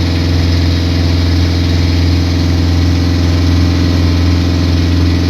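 Motorboat engine running at a steady cruising pace: a constant low drone that neither rises nor falls.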